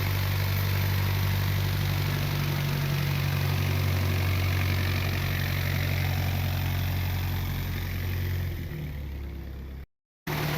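Motorcycle engine idling steadily. Near the end the note drops lower and quieter, then the sound cuts out completely for a moment before returning.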